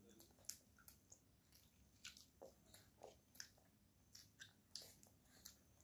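Faint chewing and mouth sounds while eating rice by hand: soft, irregular clicks and smacks, roughly one or two a second.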